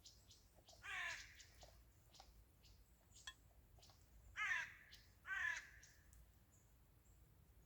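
A bird giving three short, harsh calls: one about a second in, then two a second apart just past the middle. Faint scattered ticks sound in between.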